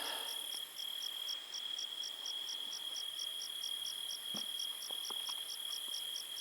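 Crickets chirping at night: one keeps up a steady high trill while another chirps in even pulses, about three a second. A few faint ticks sound about four to five seconds in.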